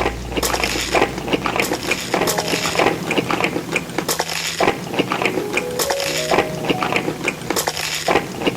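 Cutlery clinking and tapping against dishes in quick, irregular clicks, over soft background music.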